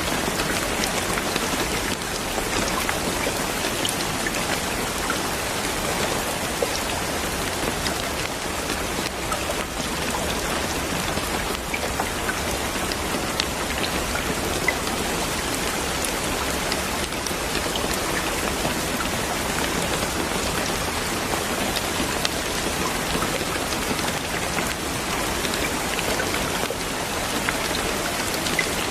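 Steady rain falling, a continuous even hiss with scattered sharper ticks of single drops striking a surface.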